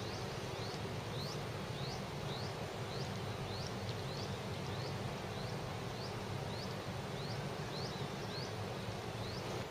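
Young scarlet-backed flowerpecker calling: short, high, upward-sliding chip notes repeated about twice a second, over a steady low background hum.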